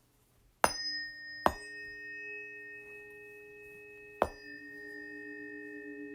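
Three planetary-tuned metal instruments, for Saturn, Mars and Uranus, struck one after another. Each strike is sharp and leaves a long ringing tone, so the tones layer into a sustained chord. After the third strike the lowest tone takes on a slow wavering beat.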